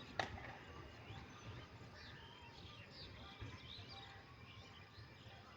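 Faint birds chirping over a low outdoor hiss, with a single sharp click about a quarter second in.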